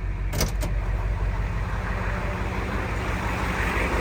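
7.3-litre IDI turbo diesel idling steadily at its normal idle as it warms up after a cold start. Two short clicks come about half a second in.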